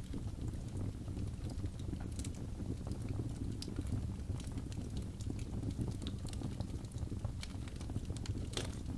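Crackling fire: a steady low rumble of burning with scattered sharp pops and crackles, including louder pops about two seconds in and near the end.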